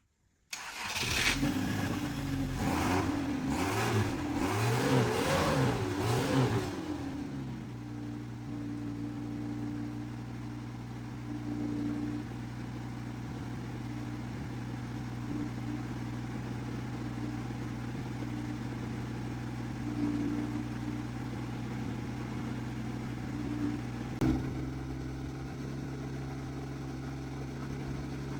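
An engine, most likely the Suzuki's, revs up and down several times for the first few seconds, then settles into a steady idle. A single sharp click sounds near the end.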